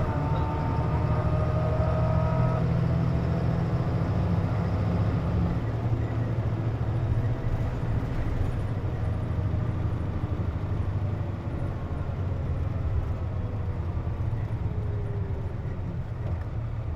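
Cabin of a Nissan Diesel JP city bus: the diesel engine runs with a steady low drone, and the air conditioner is on, which the uploader says gives this bus its unusual noise. A high whine made of several tones settles in pitch and stops about two and a half seconds in.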